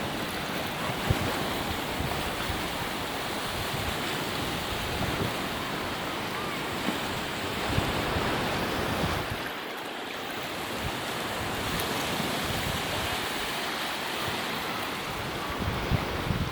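Ocean surf washing onto the beach, a steady rushing that eases briefly partway through, with wind rumbling on the microphone.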